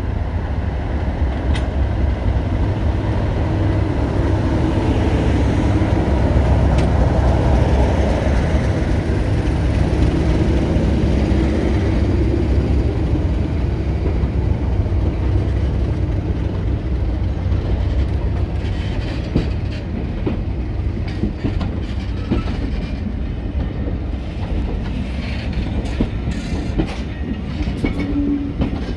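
Diesel train running on the line: a steady, loud engine rumble, with scattered clicks in the second half.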